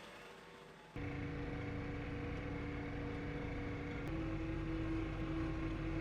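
A motor running steadily with an even hum, cutting in abruptly about a second in; its pitch steps up a little about four seconds in.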